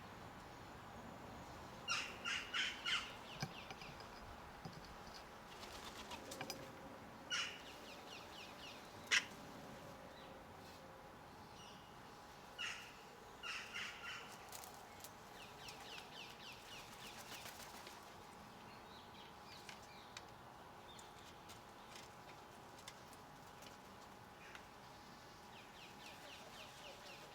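Garden birds calling: short harsh calls that come in quick runs of three or four, and rapid chattering rattles.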